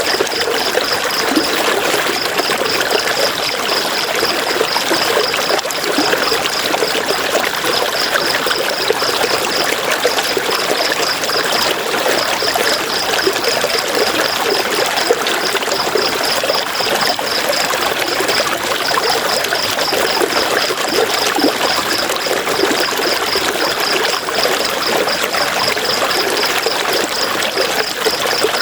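River water flowing steadily, a continuous rush and trickle. A high, rapid pulsing trill runs along with it in long stretches broken by short pauses.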